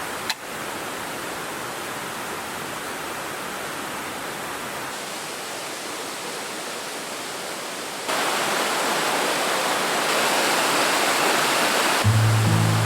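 Mountain stream water rushing steadily over rocks, stepping up louder about eight seconds in. Acoustic guitar music comes in near the end.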